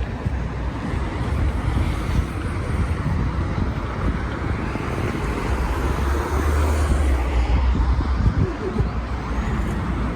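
Road vehicle running: a steady low rumble with road noise, swelling louder about halfway through.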